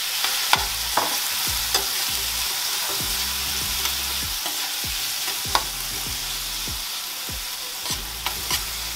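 Diced onion and tomato sizzling in hot oil in a frying pan, with a steady hiss. A metal spoon stirs them, clicking and scraping against the pan at irregular intervals.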